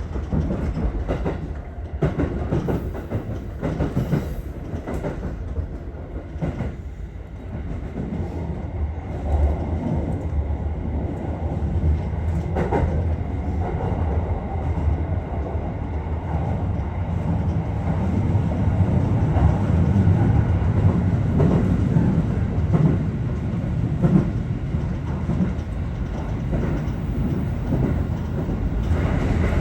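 Aichi Loop Railway 2000 series electric train running along the line: a steady rumble of wheels on rail with clickety-clack clicks over the rail joints. The clicks are most distinct in the first several seconds, and the rumble grows louder about two-thirds of the way through.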